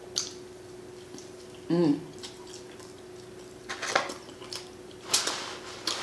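Someone drinking Sprite: a few sharp clicks and swallowing sounds, with one short voiced gulp about two seconds in, over a faint steady hum.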